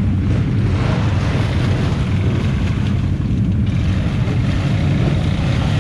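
ATV engine running steadily under way, a continuous low rumble with wind buffeting the microphone.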